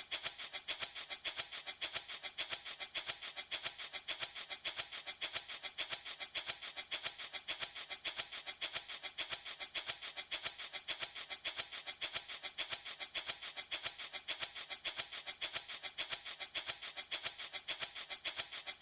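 Small handmade wooden baby rattle shaken in a steady, even rhythm, a few crisp, bright rattling strokes a second.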